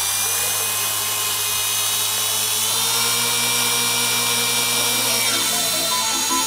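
Gaui Hurricane 255 electric RC helicopter running, its brushless motor and rotors giving a steady high whine. The pitch shifts about five seconds in.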